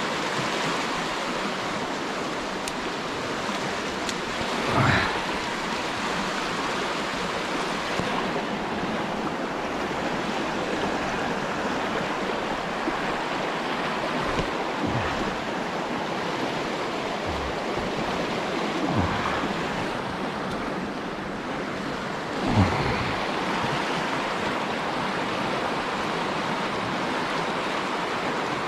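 Small river flowing steadily, a continuous rush of water, with a couple of brief low thumps about five seconds in and near the middle of the second half.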